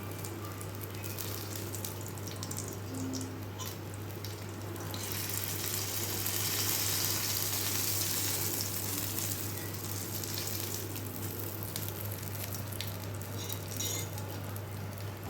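Chicken pieces frying in hot oil with a steady sizzle, which swells louder for a few seconds in the middle. A steady low hum sits underneath.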